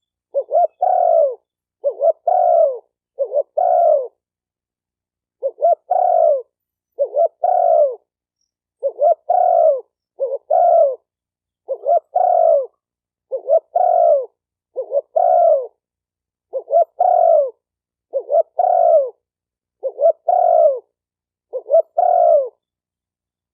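Spotted dove cooing: about fifteen short coo phrases, each a quick lead note followed by a longer note that falls in pitch, repeated roughly every one and a half seconds with a slightly longer pause about four seconds in.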